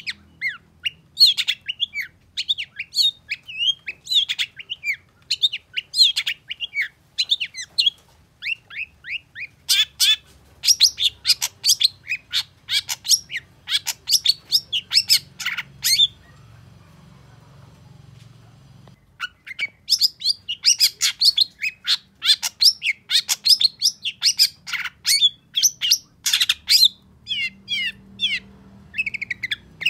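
Long-tailed shrike (cendet) singing a fast run of sharp, high chirps and squeaky notes. It breaks off for about three seconds midway, then resumes.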